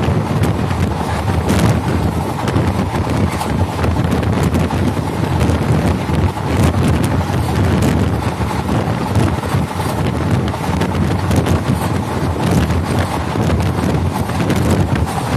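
Indian Railways express passenger coach running at speed: a steady rumble of steel wheels on the rails with wind buffeting the microphone, and a few sharp clicks from the track.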